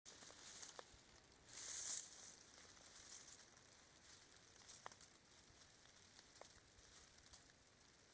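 Faint rustling and hiss, with a brief louder patch of hiss about two seconds in and a few soft clicks.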